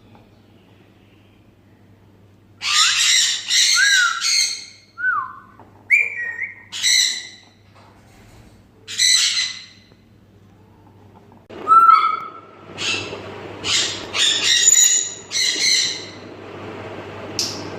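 African grey parrots screeching, a run of harsh squawks broken by short sliding whistles. The calls start a couple of seconds in and come in clusters, the densest one in the last third.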